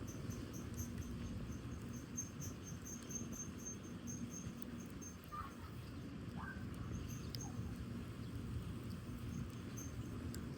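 Crickets chirping in a quick, regular pulsing rhythm over the low, steady noise of a wood fire burning in a fire pit, with a few scattered crackles.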